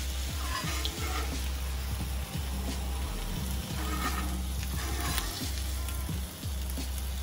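Ham, sausage patties and an egg sizzling steadily on a Blackstone flat-top griddle, with a few light clicks of a metal spatula on the steel top.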